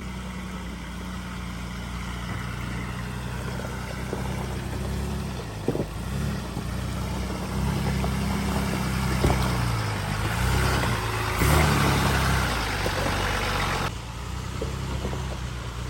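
4x4 truck's engine running and revving over rocks, its pitch rising and falling as the throttle changes. A rushing noise comes in for a few seconds past the middle.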